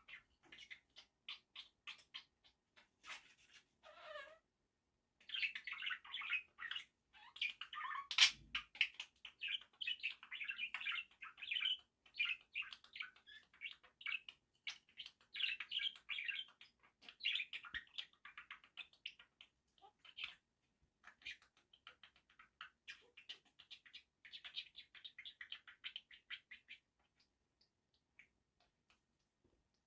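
Budgerigar chattering and warbling: scattered clicks at first, then a dense stream of fast chirps and warbles from about five seconds in, thinning back to odd clicks near the end.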